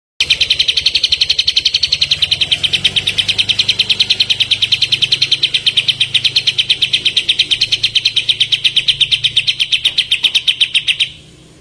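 Kapas tembak songbird singing its rapid-fire trill: one long, even run of quick repeated notes, about eight a second, that starts suddenly and cuts off about eleven seconds in.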